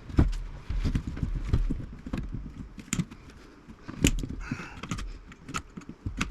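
Irregular metallic clicks, snips and rattles of hand tools and loose parts as wires and components are cut and pulled from the chassis of an old vacuum-tube radio, with a few sharper knocks near the middle.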